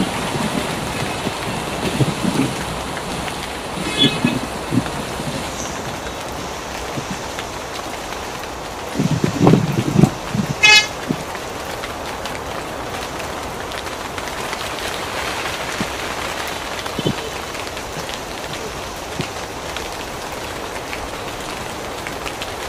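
Heavy rain pouring down steadily on a city street, with a vehicle horn tooting briefly twice, about four and about eleven seconds in. A low rumble swells just before the second toot and is the loudest moment.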